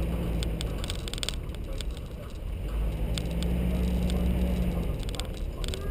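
Nissan GU Patrol's TB45 petrol straight-six engine running as the 4x4 drives along a dirt track, the engine note growing louder about halfway through and then easing off. Scattered short clicks and knocks sound over the engine hum.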